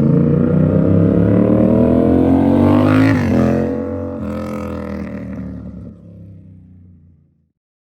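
Yamaha R7's 689 cc parallel-twin engine through a full SC Project exhaust, accelerating hard with its note climbing for about three seconds. The pitch then drops sharply and the sound fades as the bike pulls away, cutting off near the end.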